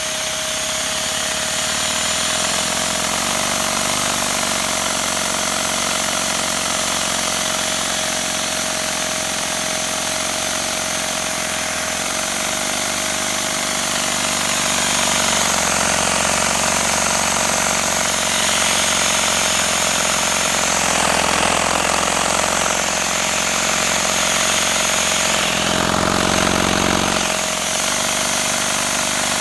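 Vacuum cleaner running steadily, drawing air through a Lego Technic flat-twin (boxer-2) vacuum engine, whose plastic pistons and crank rattle rapidly as it turns at low speed.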